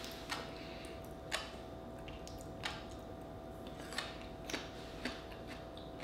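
Mouth sounds of chewing raw oyster topped with fish roe: scattered crisp clicks and small pops, about seven at irregular intervals, as the little eggs burst between the teeth.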